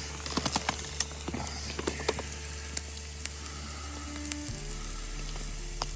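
Rump steak, onions and mushrooms frying in butter in a pan: a steady sizzle with sharp pops of spitting fat, most of them in the first two seconds.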